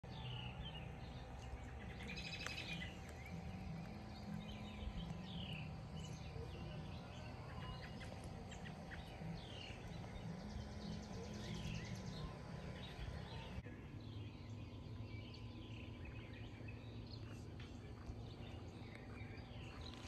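Birds chirping: short falling calls repeated throughout, over a faint steady outdoor drone.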